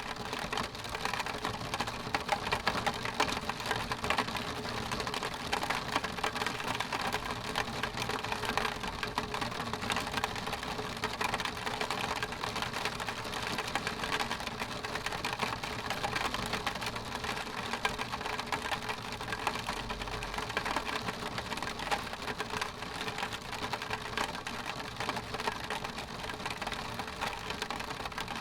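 Rain pattering on a window pane: a steady, dense patter of drops ticking against the glass.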